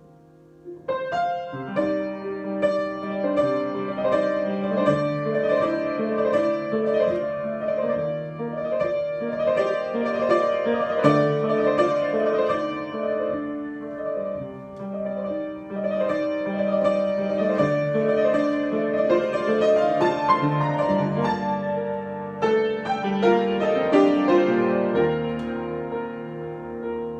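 Solo piano improvisation: a held chord fading out, then a dense run of notes and chords entering about a second in and playing on, a little softer near the end.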